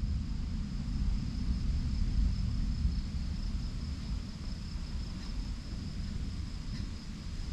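Outdoor thunderstorm ambience: a steady low rumble that swells and fades slightly, with a thin, steady high-pitched tone over it.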